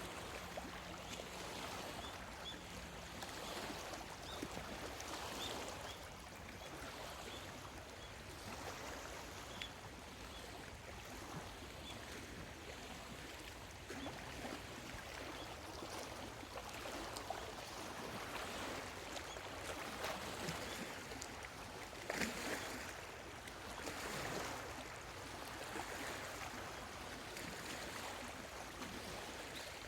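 Small lake waves lapping against the shore, swelling and easing every few seconds, with faint, high bird chirps.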